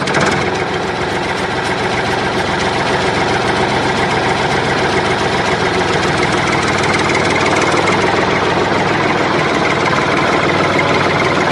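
Engine running steadily at an even speed, with a fast regular pulse.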